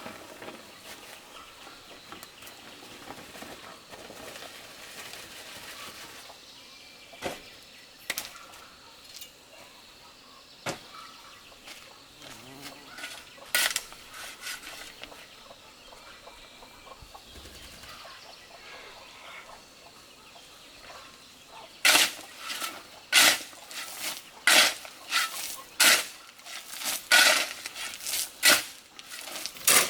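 A few isolated sharp knocks over a quiet background, then, about two-thirds of the way in, a run of loud, sharp strikes about one a second.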